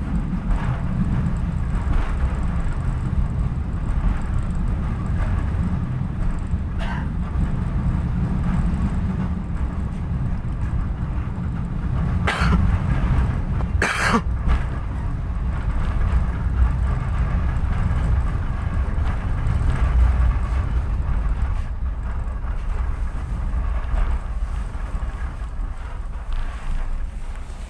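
Passenger train running, heard from inside the coach: a steady low rumble of wheels on the track, with two short sharp noises about halfway through.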